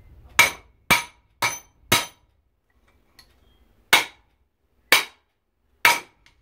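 Hammer striking metal, knocking parts off an aluminum plate: seven sharp, ringing blows, four quick ones about twice a second, then after a pause three more about a second apart.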